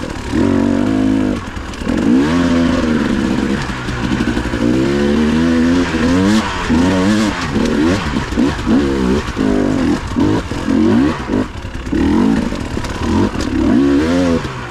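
Dirt bike engine close by, revved up and down again and again under changing throttle, its pitch rising and falling every second or so.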